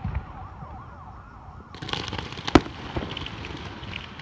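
Fireworks display: a crackling hiss sets in a little under two seconds in, then a loud bang comes at about two and a half seconds with a smaller one just after. Repeated rising and falling whistles run underneath.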